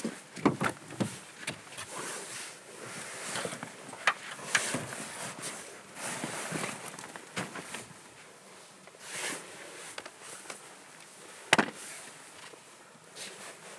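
Footsteps crunching in snow at an uneven pace, with a sharp click about eleven and a half seconds in.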